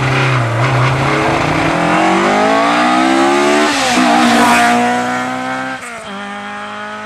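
Rally car engine under hard acceleration. The engine note climbs, drops at a gear change a little under four seconds in, and is loudest just after as the car passes close. Near the end it settles to a lower, steadier note.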